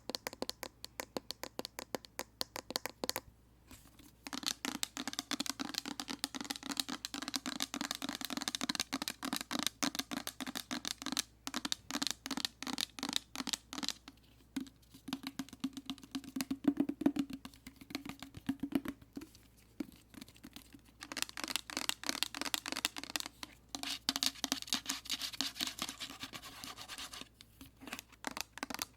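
Fast tapping and scratching on a hand soap container, in long quick runs broken by a few brief pauses.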